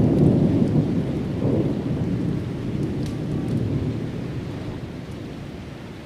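Rolling thunder: a low rumble that swells sharply at the start and again about a second and a half in, then slowly dies away.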